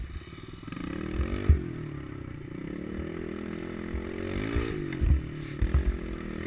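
Pit bike engine revving up and down as it is ridden, its pitch climbing and dropping several times, with scattered low thumps.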